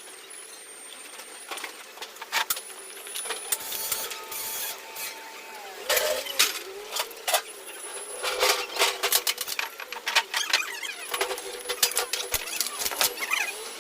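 Irregular metallic clicks, taps and clinks of hand tools and small engine parts being handled during assembly of a small generator engine, busier in the second half.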